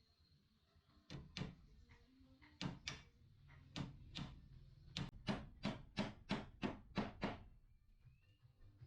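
Hammer blows on wood: a few spaced knocks, then a quick run of about ten strikes, roughly four a second.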